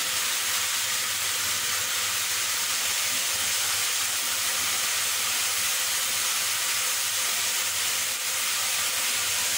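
Chicken pieces in masala sizzling steadily in an open aluminium pressure cooker over a low gas flame.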